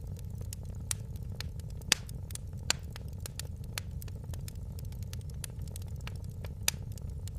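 Fire in a fireplace crackling, with irregular sharp pops over a steady low rumble; the loudest pop comes about two seconds in.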